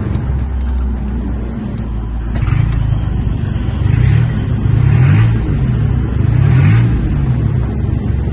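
Seat Ibiza III's 1.4 TDI PD three-cylinder diesel (engine code AMF) idling, then revved in several quick blips from about two seconds in, a faint whistle rising with some of the revs, during an engine test.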